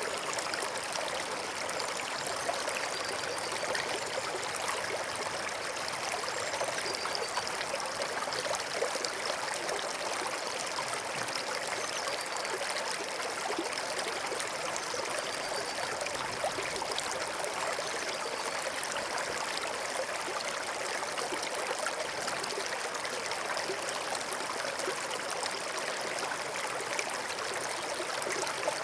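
Forest stream flowing, a steady rush and trickle of water.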